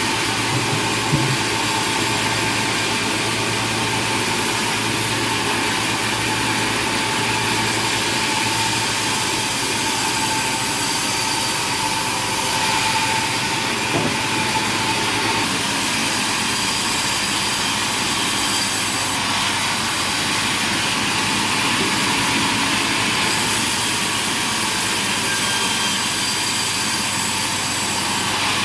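Sawmill machinery running: a steady, loud mechanical noise with a hiss and a low hum. It shifts slightly in tone at several points, with a faint knock about a second in and another about halfway.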